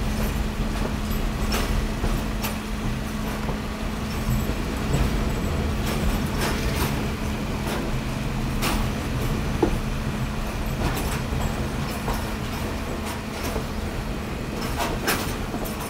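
Passenger train running, heard from a coach window: a steady low rumble and hum, with scattered clicks and knocks from the wheels and coaches.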